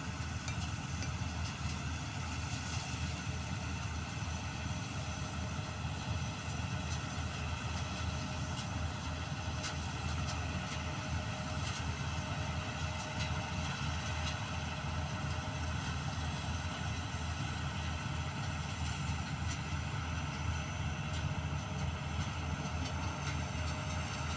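A motor running steadily with a low, even rumble and no change in speed, with a few faint short ticks over it.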